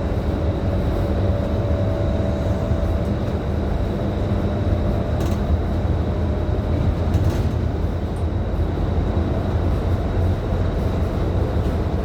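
Scania K310IB 6x2 city bus under way, heard from inside the cabin: a steady low engine and road rumble with a faint steady whine over it.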